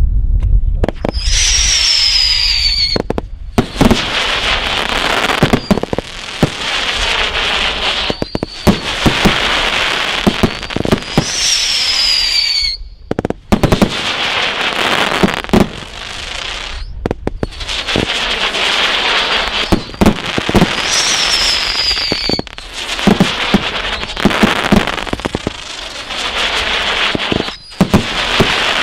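A 1.3G single-ignition fireworks barrage cake firing shot after shot: sharp reports and booms over dense crackling. Three times, about ten seconds apart, a falling whistle sounds over the barrage.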